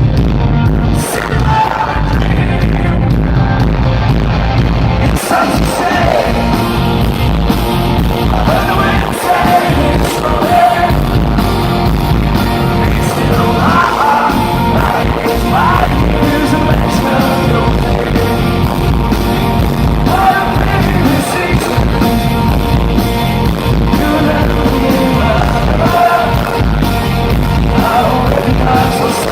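Rock band playing live, with a man singing the lead vocal over it.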